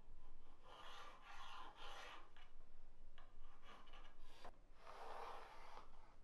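Dry rubbing or scraping strokes, coming in three spells of a second or so each.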